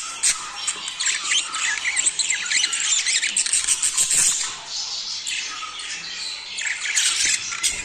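A flock of budgerigars chattering and warbling: dense, overlapping short chirps and squawks. The calls thin out for a second or two past the middle, then crowd back in near the end.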